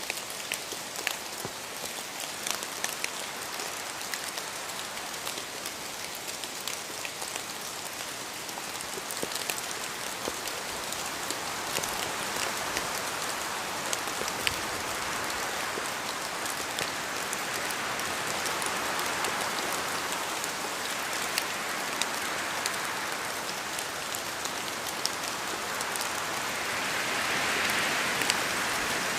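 Steady rain falling in a forest, with many close drops ticking sharply over the even hiss. The rain swells louder through the second half, strongest near the end.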